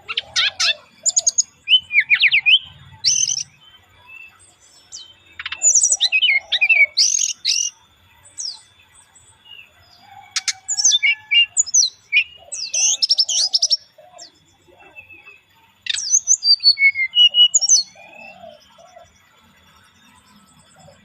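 Brown-chested jungle flycatcher (sikatan rimba dada coklat) singing in its relaxed lure song: short phrases of quick, varied whistled notes separated by brief pauses.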